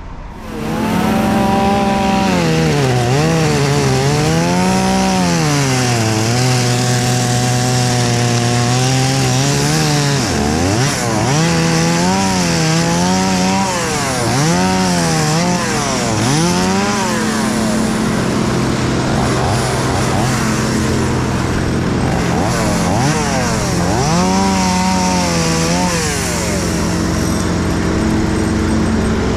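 Gas chainsaw running hard and cutting wood, its pitch rising and falling as the throttle is worked and let off to a low idle several times, with a steady engine running underneath.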